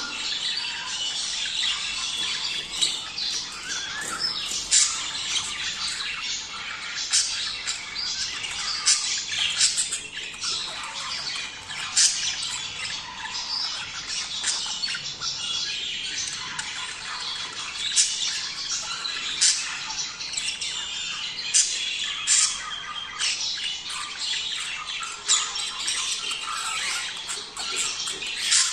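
A flock of budgerigars chattering steadily, with sharp squawks cutting through every second or two.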